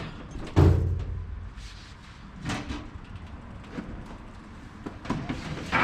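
Workshop handling noises: a heavy, deep thud about half a second in, followed by a few lighter knocks and clunks.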